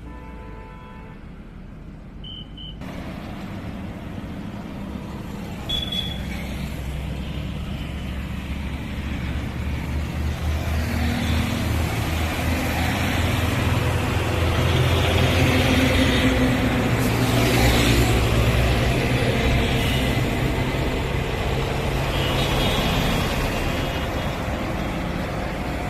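Highway traffic of heavy trucks and tankers running past at speed: a low engine drone and tyre noise that swell to their loudest about two-thirds of the way through, then ease off slightly. A few short high beeps sound near the start and again near the end.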